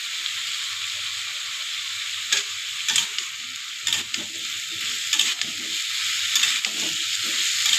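Sliced onions and potato chunks sizzling steadily in hot oil in a metal kadhai. A metal spatula knocks and scrapes against the pan as they are stirred, starting a couple of seconds in and growing more frequent.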